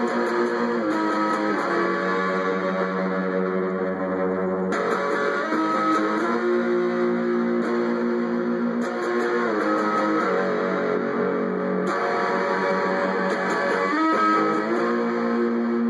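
Electric guitar playing a repeating riff of held, ringing notes that shift every second or two, with the phrase coming round again about every seven seconds.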